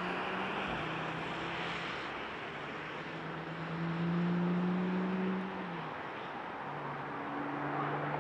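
Car engine running at a steady cruise under tyre and road noise. Its pitch drops a little about two seconds in, rises around four seconds, and drops again near six seconds.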